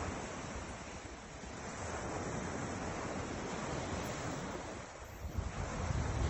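Ocean surf rushing and washing in, rising and falling in slow swells, with wind gusting on the microphone near the end.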